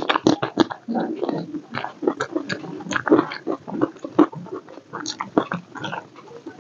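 A person eating rice by hand, chewing with the mouth open: an irregular run of wet smacks and clicks, several a second.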